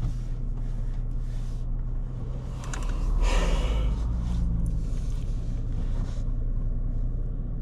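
A person gasps and breathes hard, loudest about three seconds in, over a steady low hum typical of an idling vehicle.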